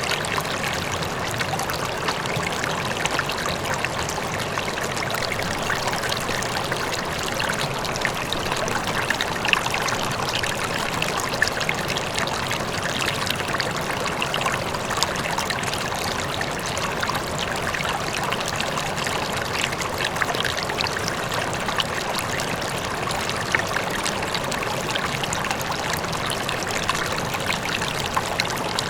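River water flowing and splashing steadily over rocks, an even rushing with small bubbling splashes, with a faint waterfall in the distance blended into it.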